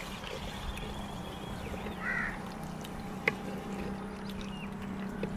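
A single short bird call about two seconds in, over a steady low hum, with one sharp click a little after three seconds.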